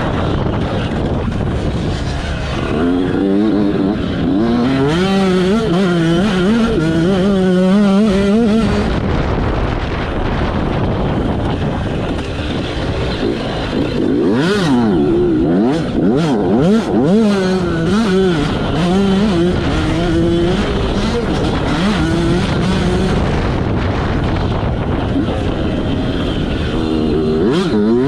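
Yamaha YZ85 two-stroke motocross bike racing, its engine pitch climbing and dropping over and over with the throttle and gear changes, over a rough rushing noise.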